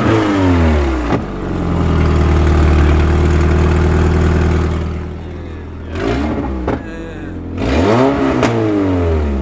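Toyota AE86 Corolla's 4A-GE four-cylinder engine being revved in neutral. One rev is held steady for a few seconds, then drops, followed by a couple of short blips and a final rise and fall. It runs through a stock exhaust on a welded-up header that still leaks badly.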